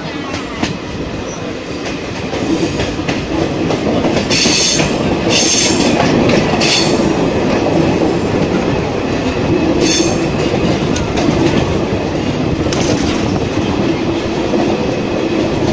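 Passenger train running on a curving mountain line, heard from an open coach doorway: steady rumble and clatter of wheels on rails, with short high-pitched wheel squeals a few times between about 4 and 7 seconds in and once more near 10 seconds.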